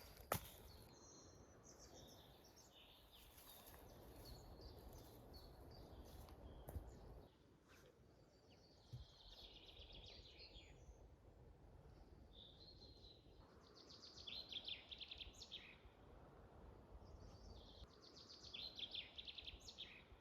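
Faint songbird song: several phrases of quick high notes, a few seconds apart, over a low outdoor hush.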